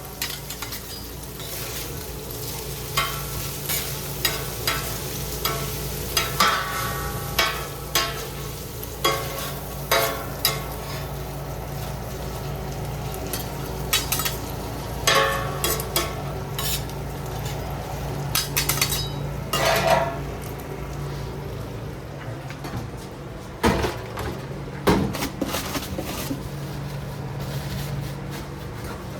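Food frying on a hot griddle, with irregular metal clatters and scrapes of kitchen utensils against the cooking surface and pans, over a steady low hum.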